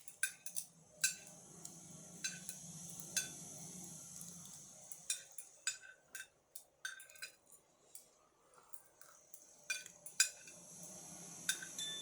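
Metal cutlery clinking and scraping against a dinner plate while eating, with a dozen or so irregular sharp clinks. A low hum runs underneath during the first few seconds and again near the end.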